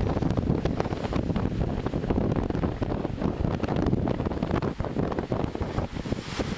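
Wind buffeting the camera microphone: a low rumble that rises and falls unevenly in gusts.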